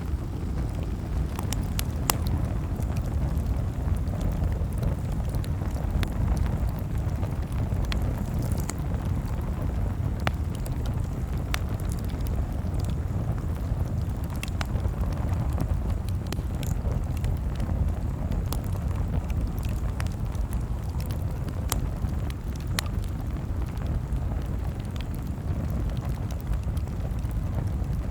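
Campfire crackling: a steady low rumble of burning with sharp pops and snaps scattered irregularly throughout.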